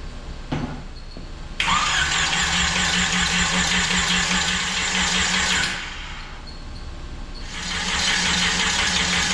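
GM 3.0-litre engine being cranked by its starter in two bursts of a few seconds each, turning over evenly without firing.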